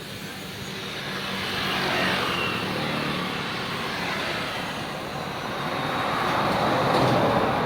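STIHL TS410 cut-off saw's two-stroke engine running: a steady drone under a rushing noise that swells about two seconds in and again near the end.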